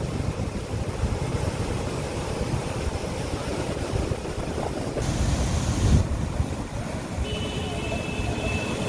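Rushing floodwater: a rough, steady noise that changes abruptly about five seconds in and again a second later.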